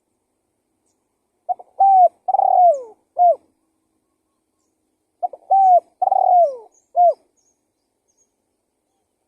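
Spotted dove cooing: two identical four-note phrases about four seconds apart. Each phrase is a short coo, a longer coo, a long coo falling in pitch and a short closing note.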